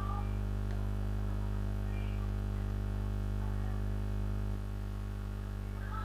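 Steady electrical hum with a stack of harmonics: a low, unchanging buzz on the call audio that drops slightly in level about four and a half seconds in.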